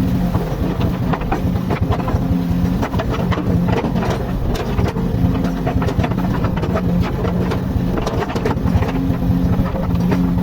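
Komatsu hydraulic excavator's diesel engine running steadily under work, with frequent knocks and clatter throughout.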